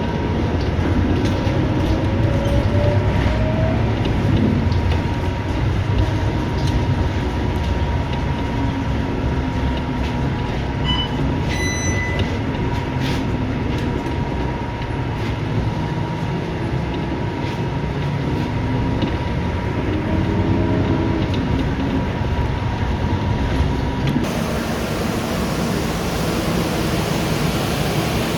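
Interior of a Scania K230UB bus in motion: engine and drivetrain running under steady road rumble, with a thin steady whine. A short high beep sounds about halfway through, and near the end the rumble gives way abruptly to a steady hiss.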